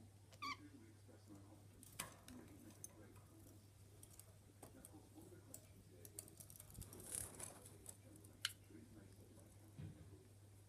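Faint, scattered clicks and small rustles from pet budgies moving about in their cage, with a short chirp about half a second in.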